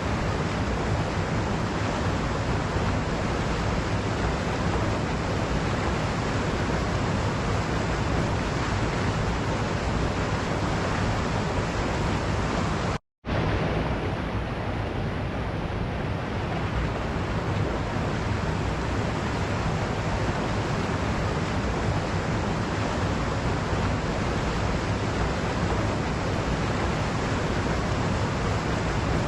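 Waterfall rushing steadily: a dense, even wash of falling water. It cuts out completely for a split second about thirteen seconds in, then comes back a little duller for a few seconds.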